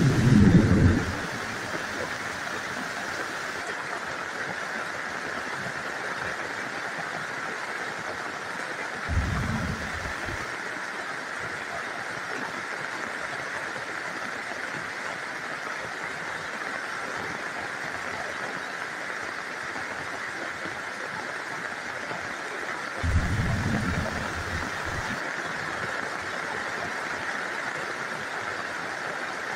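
Steady rain with three short, low thunder rumbles: one right at the start, one about nine seconds in and one about 23 seconds in.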